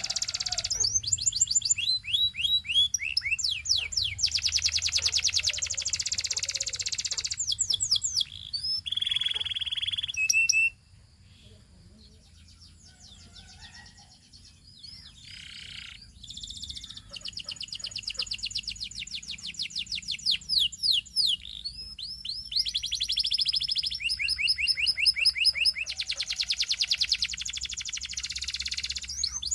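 Canary singing long, rapid trills of repeated high notes. The song breaks off for a few seconds about a third of the way in, then resumes with fresh runs of trills.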